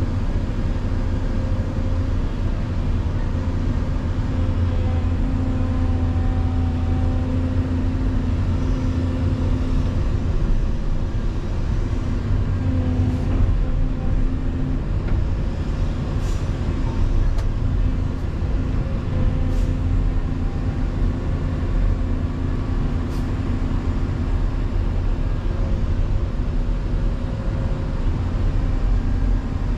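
Volvo EC220EL excavator's diesel engine running steadily at working speed, a deep even drone with a few faint ticks in the middle.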